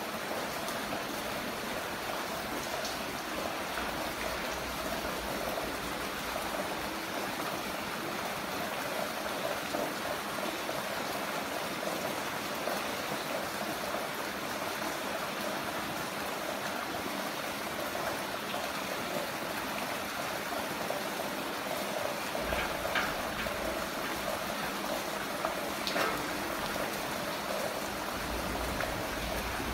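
Heavy rain falling, a steady even rushing of water with a few sharper individual drops or splashes in the last third.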